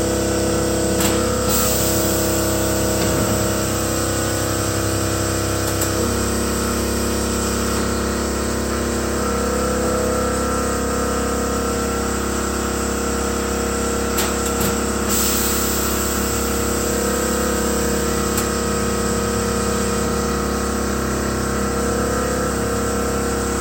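A machine running steadily with a constant hum of several held tones, its pitch shifting slightly about six seconds in, then cutting off at the end.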